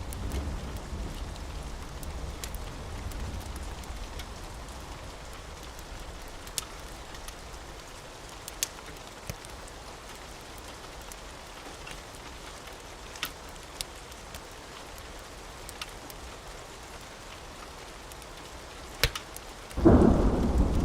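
Steady rain with scattered sharp pops. A low thunder rumble dies away over the first few seconds, and a loud thunderclap breaks near the end.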